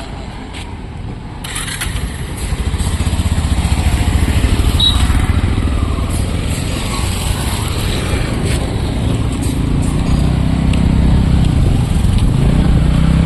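A motor vehicle's engine running with a steady low rumble, getting louder about a second and a half in.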